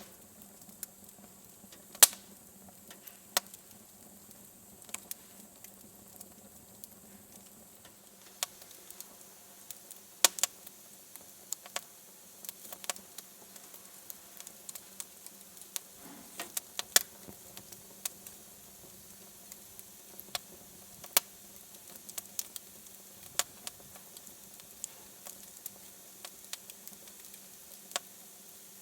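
Wood fire in a fireplace crackling, with irregular sharp pops over a faint steady hiss. The loudest pop comes about two seconds in.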